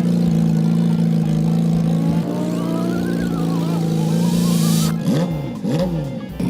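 Engine sound effect running at a steady pitch, with a few quick downward pitch sweeps about five seconds in.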